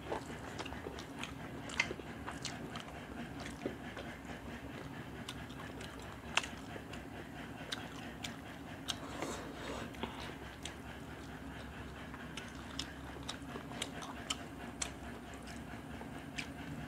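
Rice and fish curry being eaten by hand: close, wet chewing and lip-smacking with many scattered sharp smacks and clicks, and fingers working the rice on steel plates. A steady low hum runs underneath.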